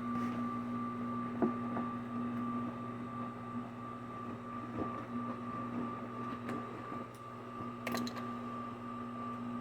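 An electric motor humming steadily at one constant pitch, with a few short clicks and knocks about 1.5, 5 and 8 seconds in.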